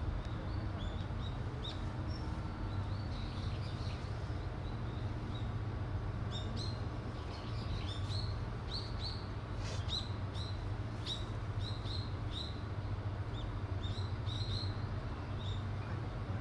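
Small birds chirping: many short, quick chirps, thickest in the second half, over a steady low rumble.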